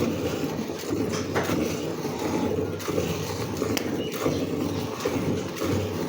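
Hand milking a cow: milk streams squirting into a pail, in an uneven pulsing run of splashing.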